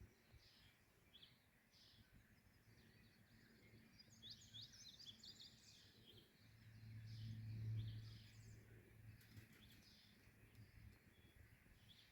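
Small birds chirping faintly in quick, short high notes, busiest about four seconds in. A low hum swells and fades midway and is the loudest sound.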